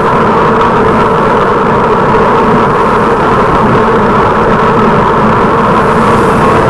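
Steady, loud rushing of wind and road noise picked up by a camera on a moving bicycle, with no clear rise or fall.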